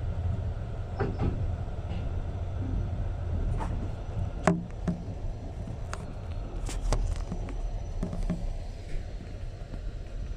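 Passenger train carriage running: a steady low rumble with scattered sharp clicks and knocks, the loudest about halfway through.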